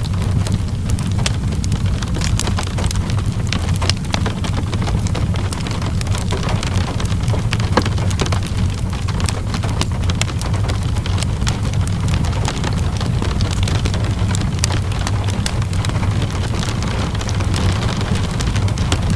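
Steady rain with a deep, even rumble, mixed with a wood fire's crackles and small pops scattered throughout.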